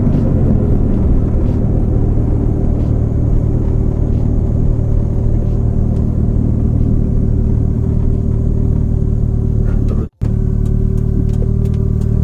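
Toyota 4E-FTE turbocharged four-cylinder engine running steadily at an unchanging speed, with a low, even rumble. The sound breaks off completely for a split second about ten seconds in.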